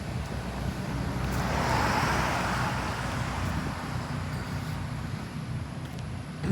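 A car passes by: its road noise swells to a peak about two seconds in and then fades. Underneath is a steady low rumble.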